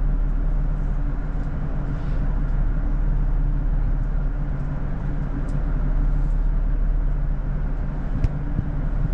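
Diesel train heard from inside the carriage: a steady low engine drone with running noise over it, and one sharp click about eight seconds in.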